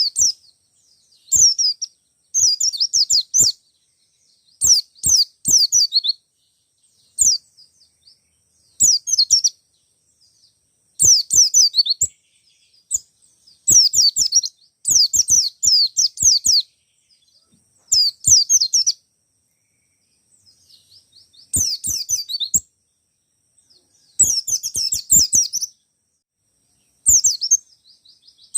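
Wild-caught white-eye (pleci) singing persistently: repeated bursts of rapid, high twittering notes, each lasting about half a second to a second and a half, with short pauses between them.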